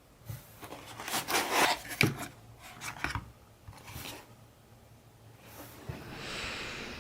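Close-miked ASMR food sounds: a run of crackly crunching and rustling with a few sharp clicks in the first two seconds, then sparser clicks and a soft rustling hiss near the end.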